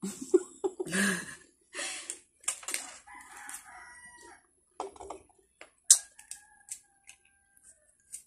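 Crunching and chewing of watery rose apple (tambis). Behind it come long drawn-out animal calls: one about three seconds in, and a second from about six seconds that is held on one pitch and fades out.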